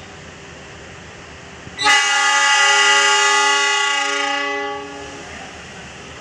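Locomotive air horn sounding one long blast of several tones at once, starting sharply about two seconds in and lasting about three seconds before it fades.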